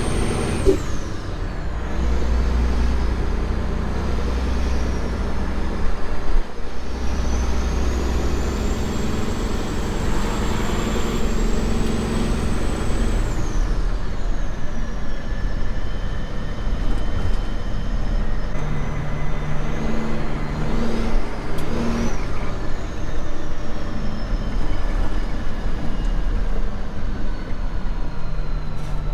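Semi truck running down the road, a steady low engine drone with a high whine that climbs and then drops away about halfway through.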